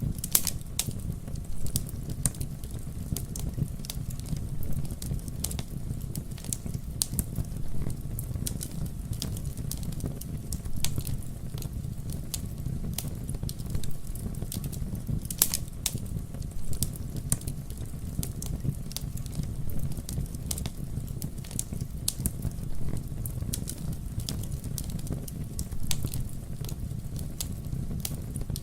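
Campfire burning with a steady low roar and irregular sharp crackles and pops of burning wood.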